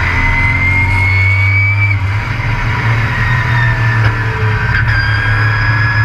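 Race truck engine running hard, heard from on board, with a high whine that climbs for about two seconds, then drops and slowly falls away.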